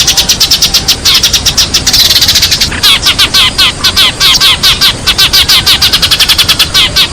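Sparrows chirping in a dense, rapid chorus of short, high chirps, about ten a second without a break: a sparrow call recording used to lure sparrows into a trap.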